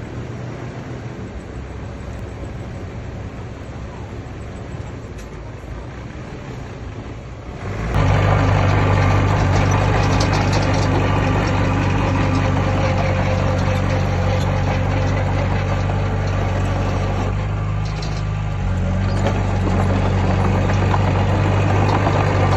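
Heavy diesel engines of earthmoving machinery running. About eight seconds in, the sound jumps suddenly to a much louder, steady low engine drone, which eases briefly about two-thirds of the way through and then picks back up.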